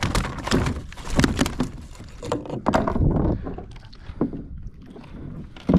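Irregular knocks, slaps and rattles of a freshly landed fish and tackle being handled on a kayak, dense for about the first three seconds, then sparser, with one louder knock near the end.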